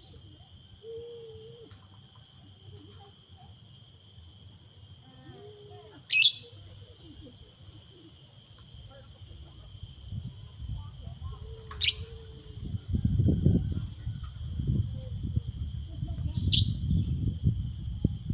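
A bird gives three loud, sharp rising calls several seconds apart, over a steady high insect drone and short chirps repeating about every second and a half. Low rumbling noise rises in the second half.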